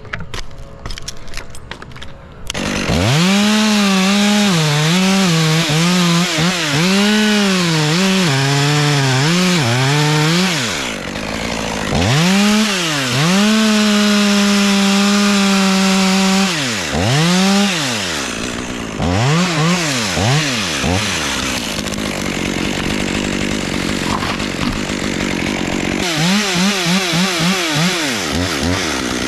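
Two-stroke chainsaw running and cutting wood, coming in about two and a half seconds in after some light clicking. Its pitch dips and recovers again and again as the chain bites, with a few seconds held steady at full revs, and quick rev bursts near the end.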